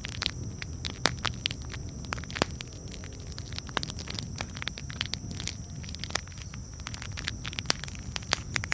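Campfire crackling: irregular sharp pops and snaps from burning wood over a steady low rumble, with a few louder pops scattered through.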